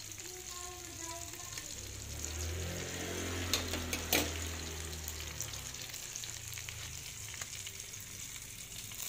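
Chopped tomato and onion frying in oil in a metal pan with a steady sizzle. Two sharp clicks come near the middle, and a low hum swells and fades through the middle.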